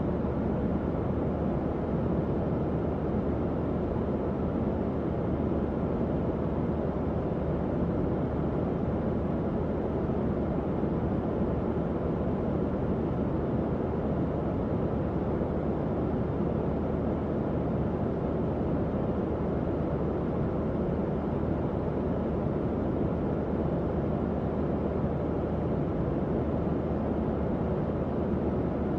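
Tower fan running steadily: an even, low whoosh of moving air with a faint motor hum under it.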